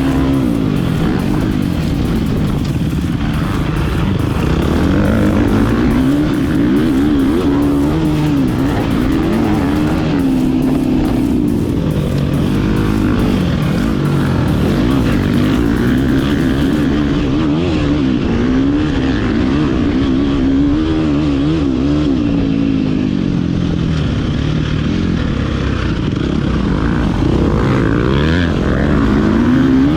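Motocross dirt bike engine running hard, its pitch rising and falling again and again as the rider opens and closes the throttle and shifts gears around the track.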